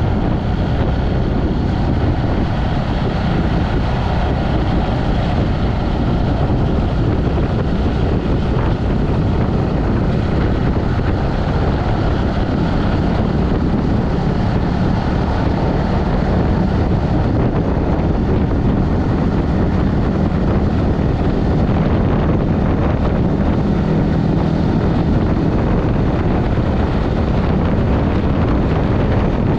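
Motorcycle engine running steadily under way, mixed with heavy wind noise buffeting the microphone.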